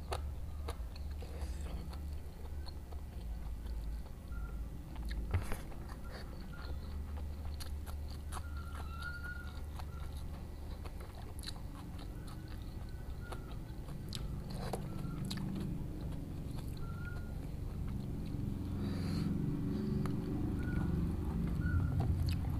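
A person eating close to the microphone, chewing and biting into smashed fried tofu and tempeh with raw vegetables, with scattered sharp mouth clicks. The chewing grows louder in the second half.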